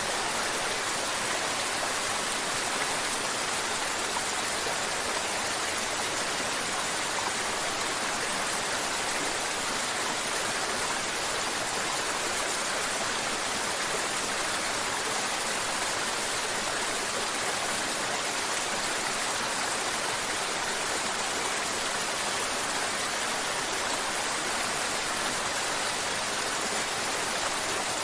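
Mountain river water flowing and babbling over rocks, a steady even rush with no breaks.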